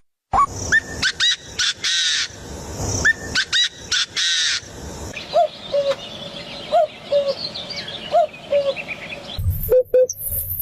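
Birds calling: assorted chirps and sharp calls, then a repeated two-note call several times in a row, changing abruptly to short, evenly spaced calls near the end.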